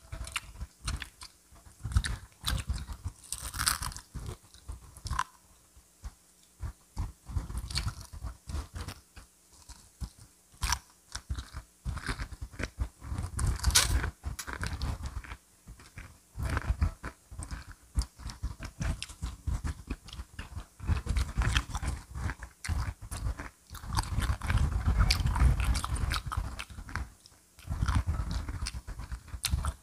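Crispy fried chicken being bitten and chewed: irregular crunches that follow one another without a real pause.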